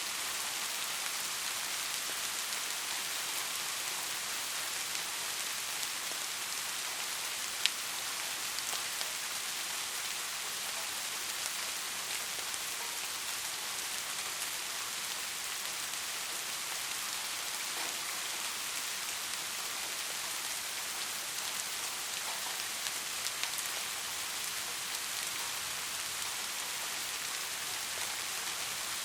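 Steady rain falling, a constant hiss of drops with occasional distinct drop clicks, one sharper than the rest about seven seconds in.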